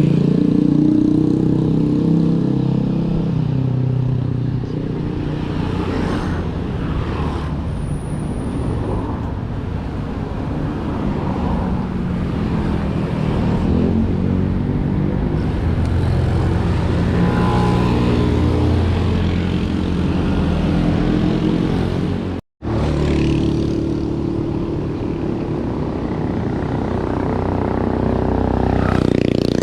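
A motor vehicle engine running continuously under way, its pitch drifting up and down with the revs. It cuts out abruptly for a split second about 22 seconds in.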